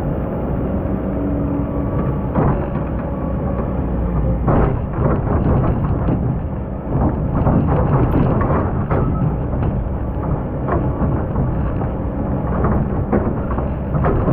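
Excavator's diesel engine running under load, with scraping and clanks starting about two seconds in as the bucket digs through a hard, compacted layer of old sand.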